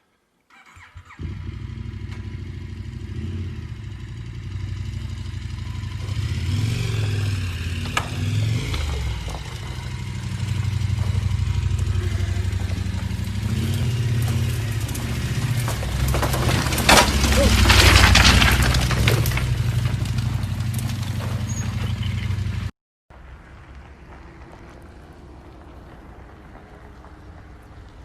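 A dual-sport motorcycle engine running as the bike is ridden over rough ground, its note rising and falling. A spell of loud clattering comes about two-thirds of the way in. The sound cuts off abruptly near the end, and a quieter steady engine rumble follows.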